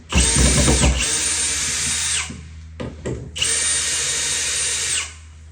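A handheld power drill runs in two bursts, the first about two seconds long and the second about a second and a half. Its motor whine spins up at the start of each burst and winds down at the end.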